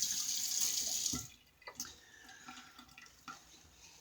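Sink faucet running as a shaving brush is wetted, shut off about a second in; a few faint small knocks follow.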